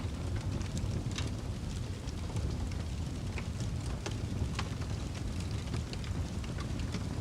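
Fire crackling: a steady low rumbling roar with irregular sharp pops and crackles scattered throughout.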